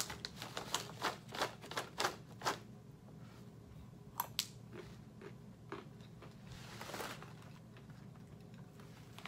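Roasted peanuts being chewed, a crisp crunch about three times a second for the first two and a half seconds, then quieter, sparser chewing with one sharp click just after four seconds.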